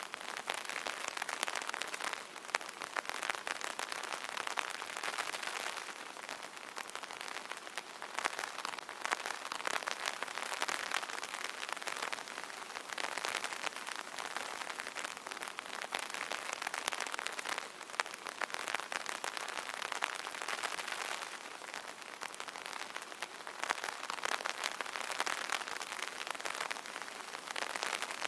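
Light rain pattering on an open umbrella: a dense, steady spatter of drops on the taut canopy that swells and eases gently every few seconds.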